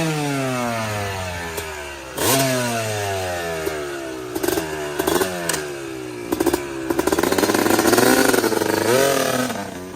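Two-stroke motorcycle engine revved in a series of throttle blips, the revs dropping back after each, with a longer rise and fall near the end, just after it has been started.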